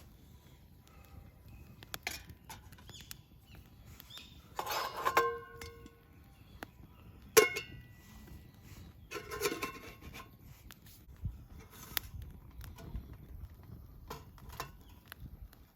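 Metal camp cookware being handled: three bouts of clinks and knocks about five, seven and a half and nine and a half seconds in, each leaving a brief metallic ring, among scattered small clicks.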